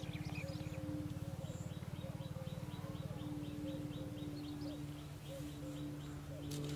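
Birds calling, with a rapid run of high, evenly spaced chirps about six a second in the middle, over a low steady hum.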